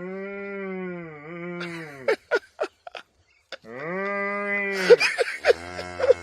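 Two long, drawn-out animal bleats, each lasting about two seconds, with a few sharp clicks between them.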